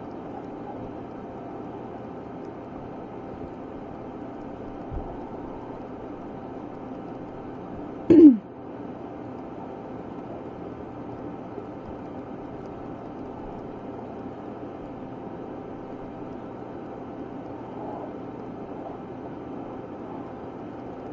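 Steady background hum and hiss of room noise, with one short, loud sound falling in pitch about eight seconds in.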